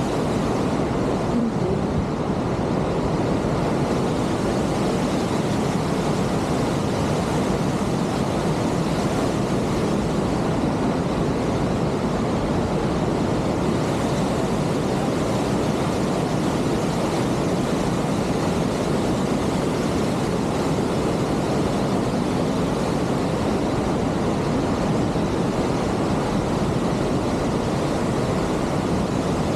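Steady rush of wind and road noise from a motorcycle on the move, with no change in pitch or level.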